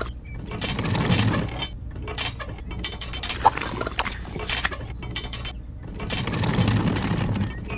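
Small geared motor of a miniature model construction vehicle running, whirring and rattling in a longer stretch about a second in and again near the end, with scattered clicks between.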